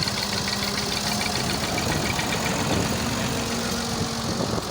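Vehicle engine running steadily, with a rapid, even knocking beat and a steady hum.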